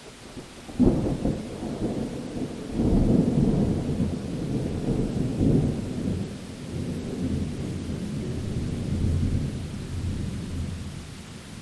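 Thunder in a rainstorm: a sudden crack about a second in, then a long low rolling rumble that slowly dies away, over the steady hiss of rain.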